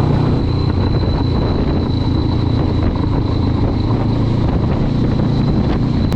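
Honda CB500X's parallel-twin engine running at a steady speed while riding along.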